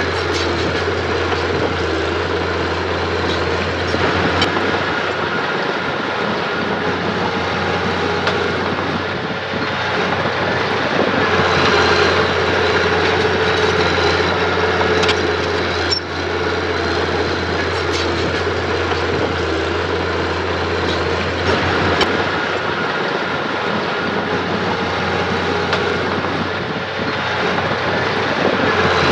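Diesel engine of earthmoving machinery running steadily, with a few sharp metallic clanks along the way.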